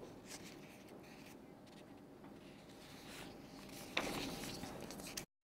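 Faint background noise, with a louder rushing noise starting about four seconds in, which cuts off abruptly into dead silence shortly before the end.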